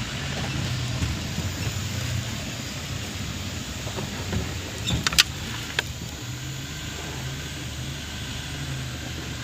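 Off-road 4x4 truck engine running under load, its revs rising and falling as it works up a steep slope. A few sharp clicks or knocks come about five seconds in.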